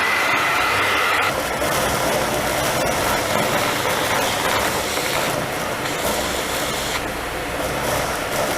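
Philips vacuum cleaner running steadily while sucking up dust and rubber bands, with light clicking of debris through the nozzle. Its high whine drops away about a second in, leaving a duller, steady rush of air.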